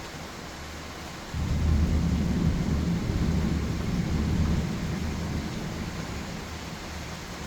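Steady rain with a low thunder rumble that breaks in about a second in, holds for a few seconds, then slowly fades.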